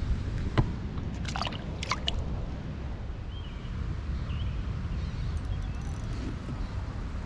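Water sloshing and gurgling at the lake's edge under a steady low wind rumble on the microphone, with a few short splashy sounds about one to two seconds in and faint bird chirps later.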